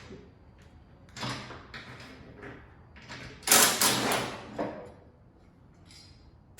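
Metal clunks and a scraping slide from a truck's hood and spring-loaded hood hinges being handled as the hood comes off. There is a short clunk about a second in, and the loudest, longest scrape about three and a half seconds in.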